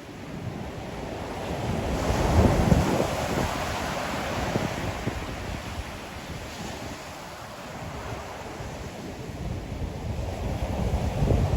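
Ocean surf breaking on the shore, swelling to a wash of breaking water about two seconds in and again near the end, with wind rumbling on the microphone.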